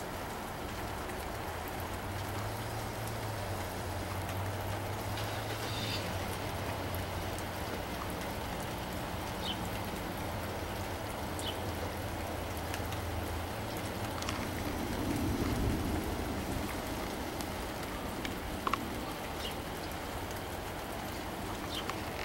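Steady rain falling, with a few single drops ticking close by.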